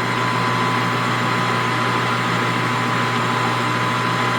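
Metal lathe running steadily in its low speed range with no cutting, warming up to circulate its oil. It makes an even motor hum with a thin steady whine.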